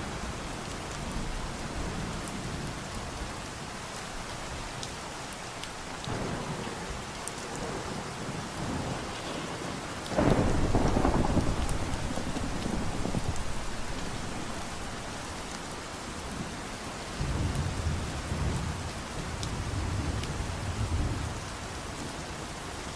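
Steady rain falling, with a sudden loud thunderclap about ten seconds in that rumbles away over several seconds, and more low thunder rumbling near the end.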